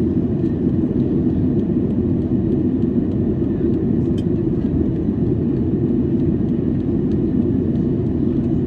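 Steady, even cabin drone of a Boeing 737-800 in flight, heard from a window seat: the low rumble of its CFM56-7B engines and the airflow over the fuselage, with no change in pitch or level.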